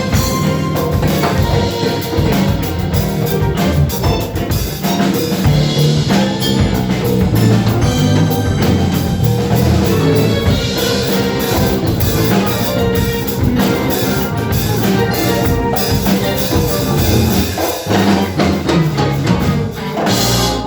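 Live band playing a funk instrumental: drum kit, bass and other instruments at full volume, stopping on a final hit near the end.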